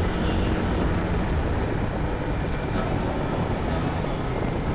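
Yamaha Tricity 155 scooter on the move: a steady mix of engine and road-and-wind noise with no change in pace.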